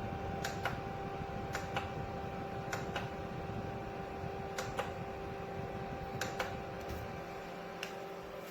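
Small fan motor of a USB portable evaporative air cooler running with a steady hum, overlaid by about a dozen sharp clicks, mostly in quick pairs.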